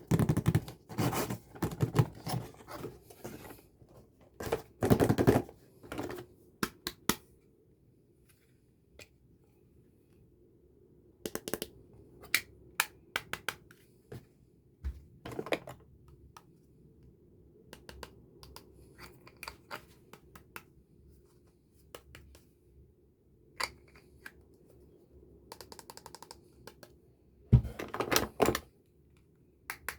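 Plastic packaging and toy makeup cases being handled and opened by hand: a dense run of crinkling, clicks and scrapes for the first few seconds, then scattered clicks and taps, and another loud flurry of crinkling near the end.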